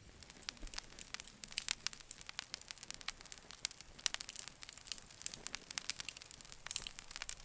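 Campfire crackling: wood popping in many sharp, irregular snaps over a faint hiss.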